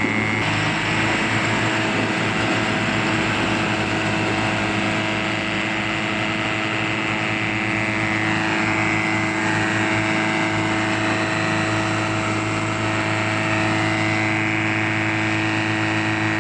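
Truck engine running steadily, a constant drone with a noisy hiss over it and a couple of faint rising and falling whines partway through.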